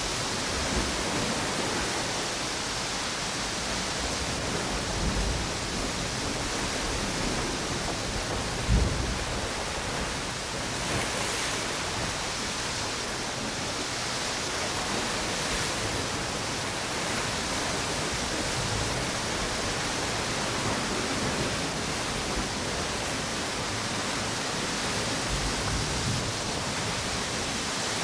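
Ocean waves washing onto a beach together with wind blowing through palm trees, a steady rushing noise. Low thumps come and go, the loudest about nine seconds in.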